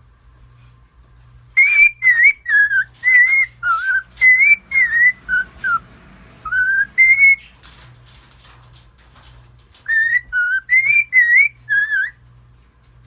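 Cockatiel whistling a tune: phrases of short whistled notes that bend up and down, with a brief scratchy chatter partway through.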